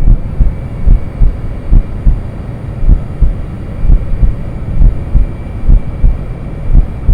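Heartbeat as heard from inside the womb: low, regular thumps a little under once a second over a muffled, steady rumbling whoosh.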